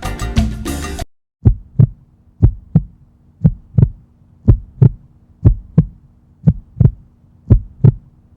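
Salsa music cuts off about a second in, giving way to a heartbeat sound effect: paired low thumps, about one pair a second, over a faint steady hum.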